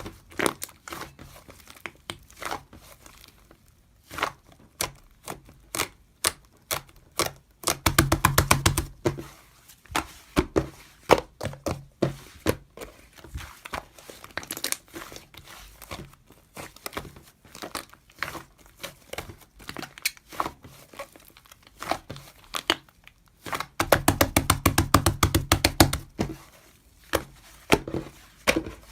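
Slime being squished and poked by hand: wet clicks and crackles throughout, with two long runs of rapid popping, about eight seconds in and again near the end.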